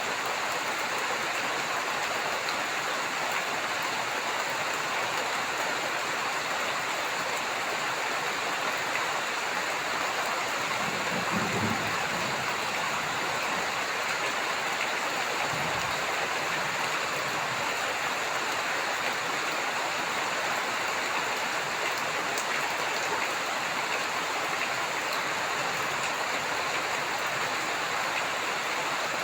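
Heavy rain falling steadily, a dense even hiss of drops on surfaces, with two faint low rumbles near the middle.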